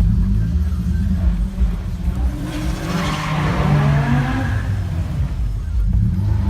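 A car engine revving hard about midway, its pitch gliding up and down, over a steady heavy low rumble.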